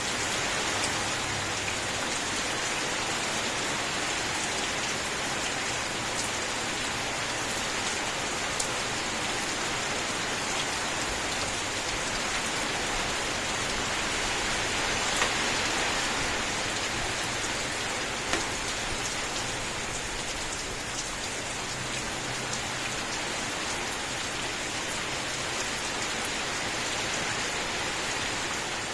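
Steady rain falling, an even hiss throughout, with a few sharper single drop hits standing out here and there.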